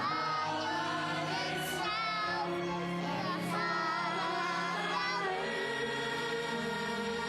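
A children's choir singing a Christmas song over an instrumental accompaniment track.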